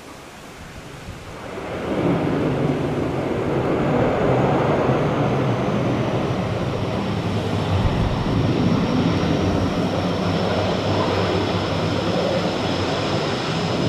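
Dash 8 turboprop landing: its engines and propellers swell up about two seconds in and then run loud and steady, with a high whine that slides down a little and then holds.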